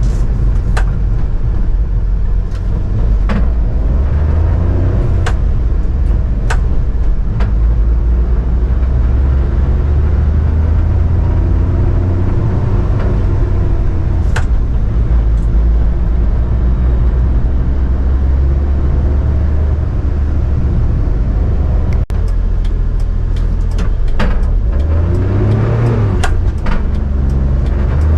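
A 1995 Mitsubishi Minicab kei truck's 660cc three-cylinder engine running on the road, its pitch rising several times as it accelerates, over a strong low rumble. Sharp clicks and rattles come through now and then.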